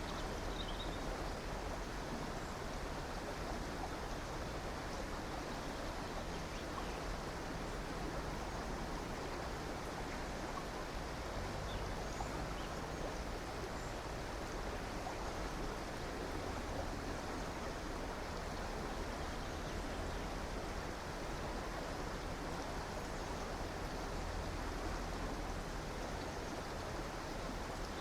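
River water flowing with a steady rushing sound, with a few faint, brief bird chirps now and then.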